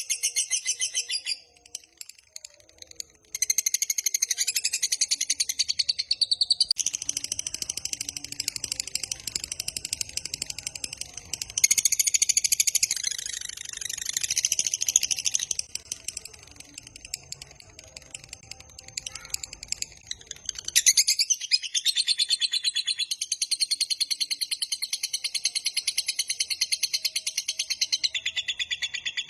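Lovebird's long 'ngekek' chatter: fast, unbroken runs of high, shrill repeated notes. It breaks off briefly about a second and a half in and goes quieter for a few seconds past the middle.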